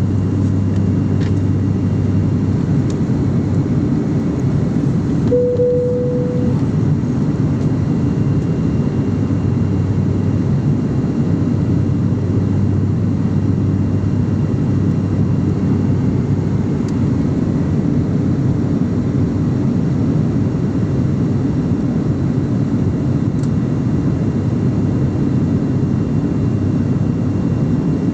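Aeroplane cabin noise in flight: a steady, loud, low rushing of engines and airflow heard from inside the passenger cabin, with a short single tone about five and a half seconds in.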